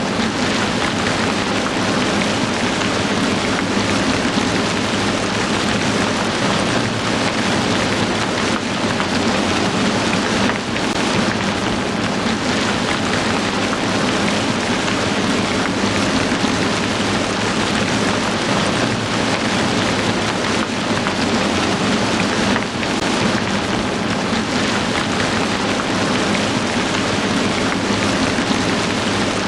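Heavy rain falling steadily, a dense, even hiss of drops with no breaks.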